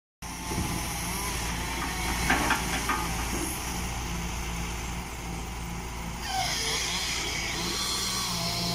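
Hitachi EX120-1 excavator's diesel engine running steadily under load, with a few sharp knocks about two seconds in. From about six seconds in, a whine rises and falls in pitch as the hydraulics work.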